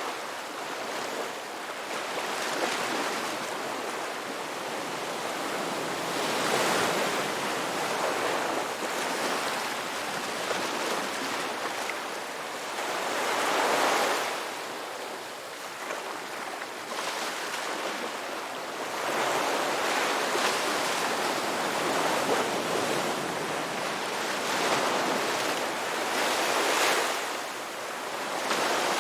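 Ocean waves breaking and washing up on a beach, surging and receding several times, with a little wind.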